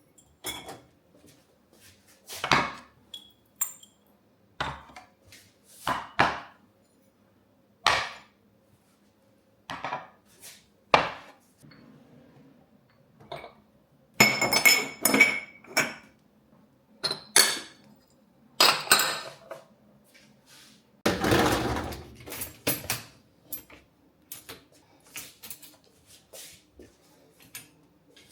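Dishes and cutlery being handled: irregular clinks, knocks and clatters of crockery and utensils, some ringing briefly. There is a longer, noisier clatter about two-thirds of the way through, and a faint steady hum underneath.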